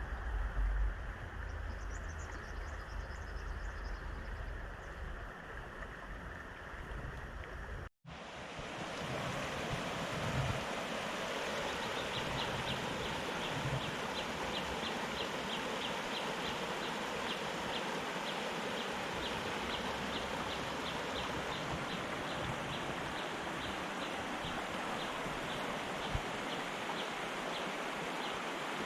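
Fast-flowing river water rushing steadily, with a deep rumble underneath at first. About eight seconds in the sound drops out for a moment and comes back as a brighter, fuller rush. Over it a faint, high ticking repeats a few times a second.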